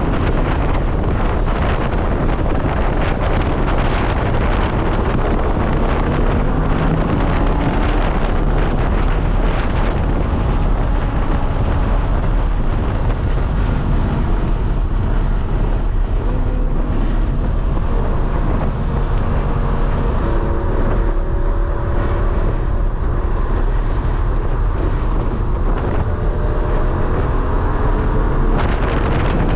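Lamborghini Huracán's V10 engine at speed on track, its revs climbing again and again through the gears, under loud wind rushing over the microphone.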